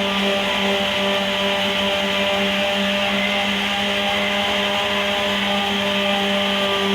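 Power sander running steadily, sanding body filler on a truck body panel: a constant motor hum with a gritty hiss of abrasive on filler.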